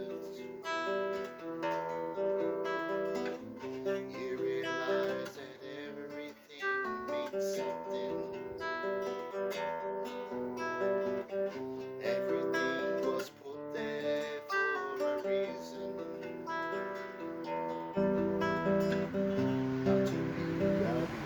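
Background music: an acoustic guitar playing plucked notes and chords in a steady melodic line.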